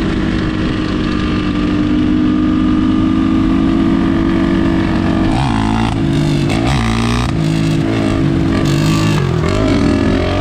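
Enduro dirt bike engine running at a steady pitch, then revving up and down repeatedly from about halfway through.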